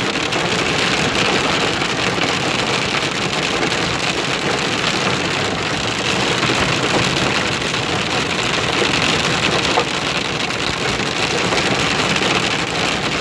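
Hail and rain pelting a vehicle's roof and windshield: a dense, steady, loud patter.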